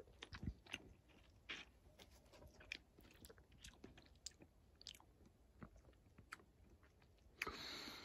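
Faint wet mouth sounds of a person biting into, chewing and sucking the flesh of a sweet lemon quarter: scattered small smacks and clicks, with a short breathy rush of noise near the end.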